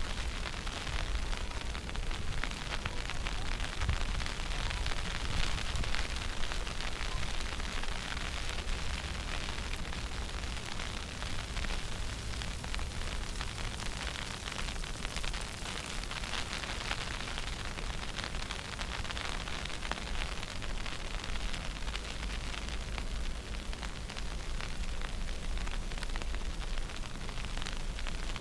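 Steady, gusty wind noise on the microphone in a snowstorm: a fluctuating low rumble under a constant hiss.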